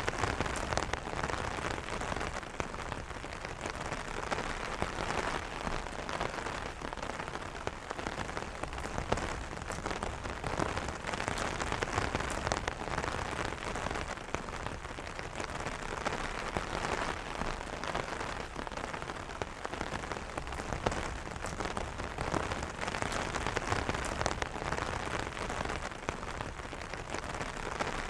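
Steady rain pattering on an umbrella's fabric canopy: a dense, even hiss of small drop impacts, with many separate drops ticking through it.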